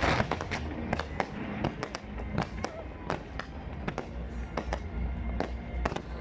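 Fireworks going off in an irregular string of sharp bangs and crackles over a continuous low rumble, with music playing underneath.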